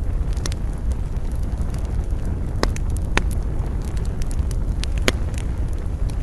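Wood campfire crackling, with scattered sharp pops, the loudest three about two and a half, three and five seconds in, over a steady low rumble.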